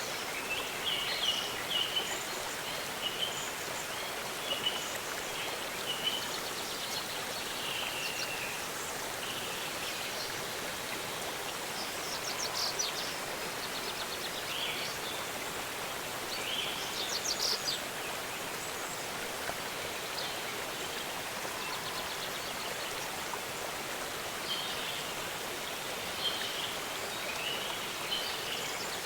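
Steady rush of a waterfall's falling water, with small birds chirping and calling over it now and then, including quick trills about twelve and seventeen seconds in.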